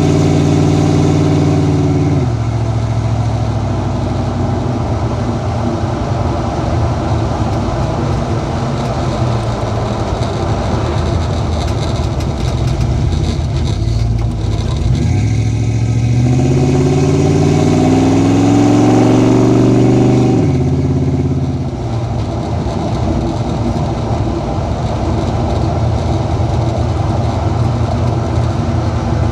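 A 1979 Ford Bronco's 7.3-litre Ford Godzilla V8 with custom exhaust running at highway speed. The steady engine note drops about two seconds in, then runs as a low rumble. From about halfway the pitch climbs for several seconds as the engine pulls harder, falls suddenly, and settles into steady cruising.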